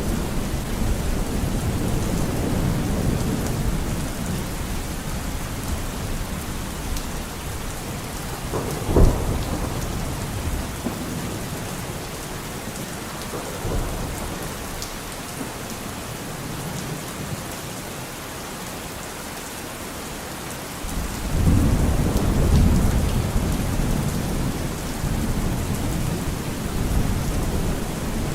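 Steady heavy rain with rolling thunder. A low rumble fades away over the first several seconds, a sharp thunderclap comes about nine seconds in, and a fresh rumble of thunder builds up near the end.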